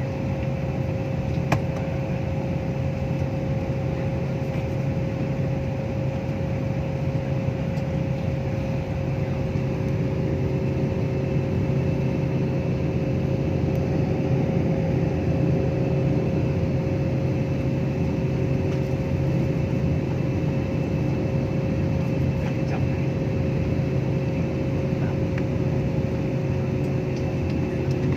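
Steady drone of an airliner cabin in flight: an unbroken low rumble with two faint steady tones running over it.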